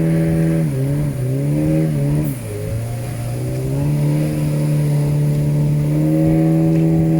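Motorboat engine running steadily. Its pitch drops in two steps about a second in as it slows, then climbs back to the same steady speed by about four seconds in.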